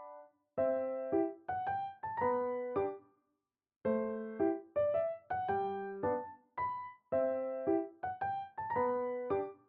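Gentle background piano music: short phrases of notes that strike and fade quickly, with a brief pause about three seconds in.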